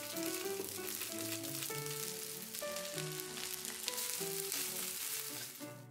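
Chicken and mushroom fried rice sizzling in a nonstick frying pan as it is stirred and scraped with a silicone spatula, over background music.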